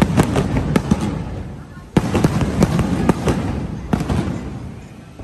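Fireworks exploding in rapid volleys of sharp cracks and bangs: a cluster at the start, then a loud burst about two seconds in, followed by quick crackling that dies away near the end.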